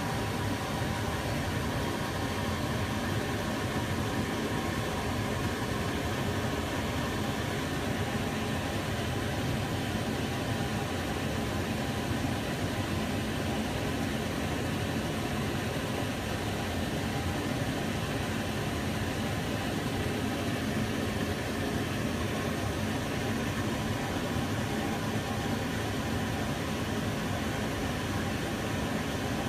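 Kitchen range hood's extractor fan running steadily, a constant even whoosh of moving air with a faint motor hum.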